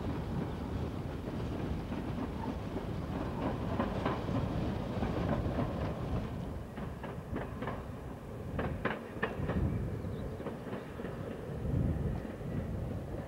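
First-generation diesel multiple unit running along the branch line: a steady rumble of engine and wheels, with the wheels clicking over rail joints in quick groups partway through.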